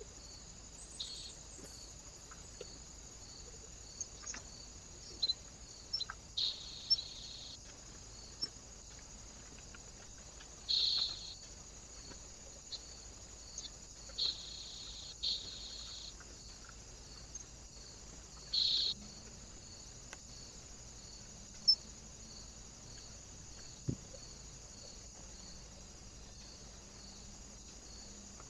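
Small birds at a bird feeder: a handful of short, high, buzzy calls spaced a few seconds apart, with scattered light clicks, over a faint steady hiss.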